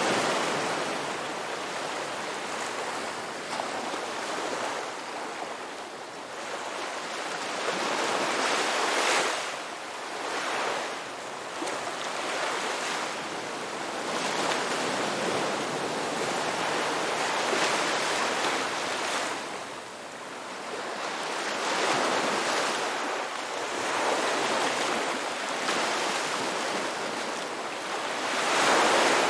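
Ocean surf: waves breaking and washing in, the rushing noise swelling and easing every few seconds, loudest near the end.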